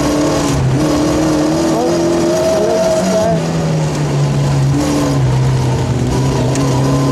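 Rally car engine heard from inside the cabin, its pitch climbing and then dropping several times as it changes gear at speed.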